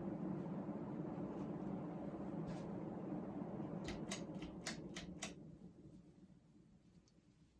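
Casablanca Four Seasons Gallery ceiling fan motor humming steadily. About four seconds in comes a quick run of sharp clicks, and then the hum dies away.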